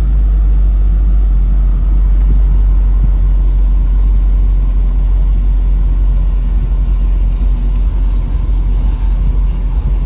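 2003 Mercedes-Benz SL55 AMG's supercharged 5.4-litre V8 idling steadily, a deep even rumble.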